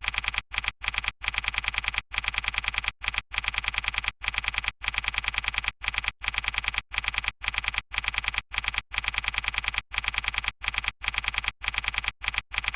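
Rapid, even keyboard-typing clicks in runs broken by short pauses, cutting off abruptly near the end.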